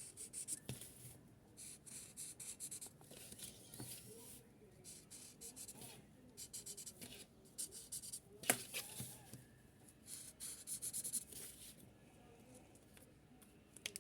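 Felt-tip marker tip stroked across paper, a soft scratchy hiss in quick bursts of short strokes with pauses between, and a few light taps, the sharpest a little past the middle.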